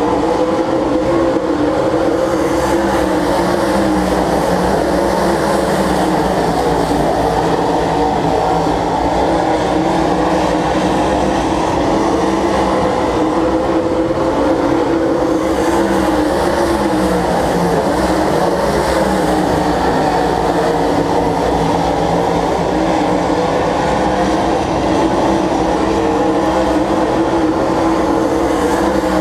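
Stock car engines running together as a field of cars laps the track: a loud, steady drone of several engines at once, its pitch wavering up and down a little as the cars go round.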